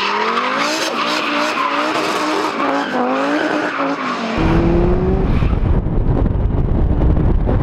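Turbocharged Volvo 242 T5 engine revving up and down while its tyres squeal in a drift. About four seconds in this cuts abruptly to the car driving at a steady pitch, with heavy wind rumble on a microphone mounted outside the car.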